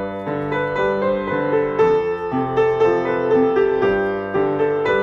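Slow, gentle piano music: a melody of single notes, a few per second, ringing on over held lower notes.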